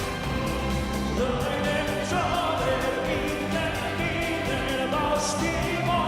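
Music: a male pop-opera singer's voice, wavering with vibrato, over orchestral accompaniment.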